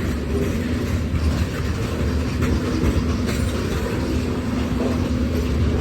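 Freight train rolling past at close range: a steady rumble of cars and wheels on the rails, with a low steady hum and faint clicks.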